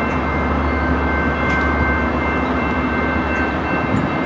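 Train running: a steady low rumble with a thin, steady high-pitched whine over it.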